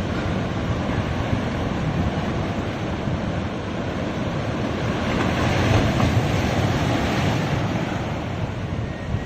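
Ocean waves breaking and washing up on a sandy beach, a continuous surf wash that surges louder about six seconds in.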